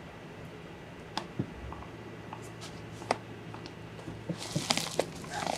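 Scattered clicks and rustling handling noises over a low steady hum, getting busier in the last second and a half.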